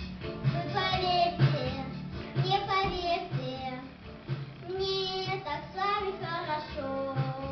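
Children singing a song over a recorded backing track with a steady beat.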